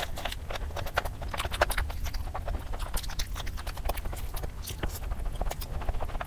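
Close-miked mouth sounds of eating spicy noodles by hand: chewing with wet lip smacks, a dense run of irregular clicks.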